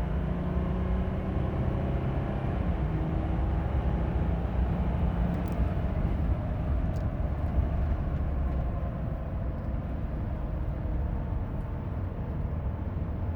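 2014 Ram 1500 EcoDiesel's 3.0-litre V6 turbodiesel pulling under hard acceleration. A faint rising engine tone in the first few seconds gives way to a steady low rumble of road and wind noise as speed builds.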